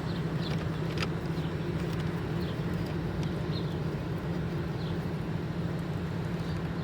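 Steady low mechanical hum, like a running engine or fan, with a few faint clicks from the glove box screws being put in.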